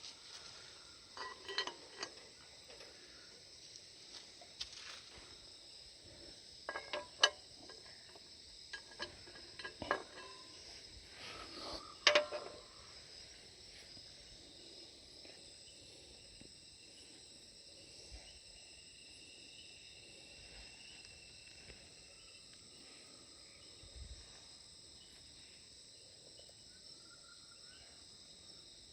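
Steady high-pitched chorus of insects, with a handful of sharp metal clinks and clatters of cooking utensils against a cast iron pan in the first dozen seconds, the loudest about 7 and 12 seconds in.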